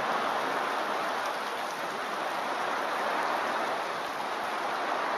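Heavy downpour of rain falling on a paved road and roadside grass, a steady hiss without breaks.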